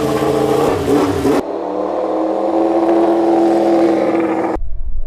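High-revving racing engine running on track, its note changing abruptly twice as separate passes are cut together, with a steady slowly rising pitch in the middle stretch.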